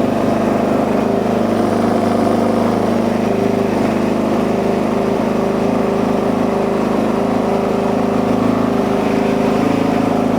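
Suzuki DR-Z single-cylinder four-stroke engine running steadily just after starting, with its idle set too high, around 3,000 rpm, after a carburettor adjustment.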